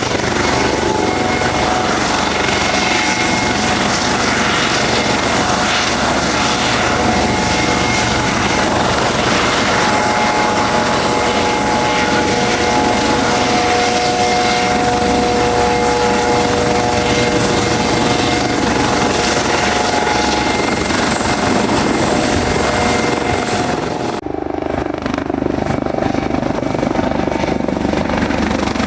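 Helicopter running close by, loud and steady, with a few steady tones over the rotor noise. About five seconds before the end the high hiss drops away suddenly and the sound carries on duller.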